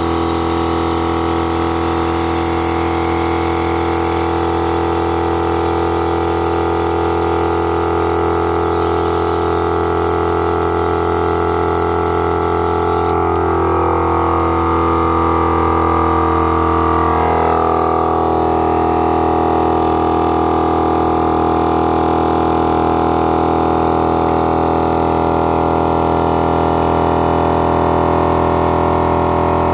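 Portable 300-litre-per-minute air compressor running steadily, filling its tank, with a dense motor hum and whine. A high hiss over it cuts off suddenly about 13 seconds in.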